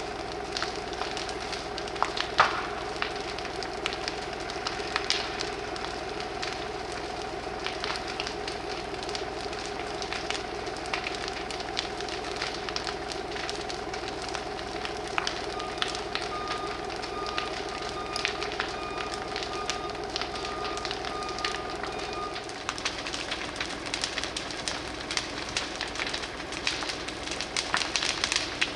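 Fully ablaze old horse stable crackling and popping, with a steady droning hum beneath that stops about three quarters of the way through. A run of short, evenly spaced beeps sounds over the middle part.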